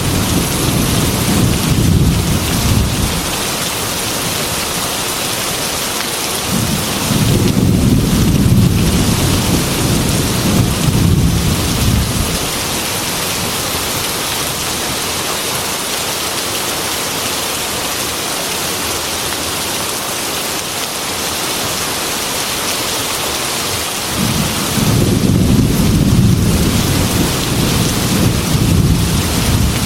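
Heavy rain hissing steadily against a glass window, with rolls of thunder rumbling three times: at the start, from about seven seconds in, and again from about twenty-four seconds in, lasting to the end.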